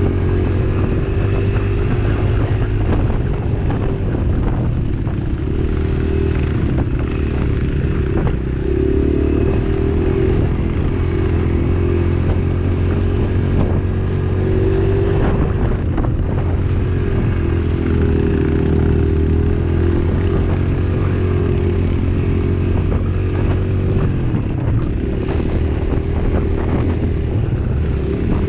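Dirt bike engine running under way, its revs rising and falling.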